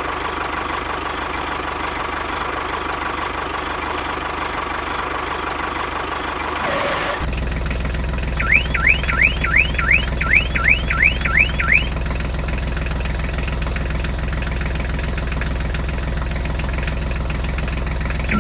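A small motor humming steadily. About seven seconds in it becomes louder and deeper, and soon after a run of about ten quick rising electronic chirps, like a car alarm, sounds for three or four seconds.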